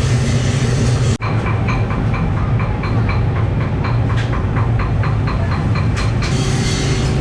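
Workshop machinery running with a steady low hum and, after a cut about a second in, a fast regular clatter of about three to four clicks a second.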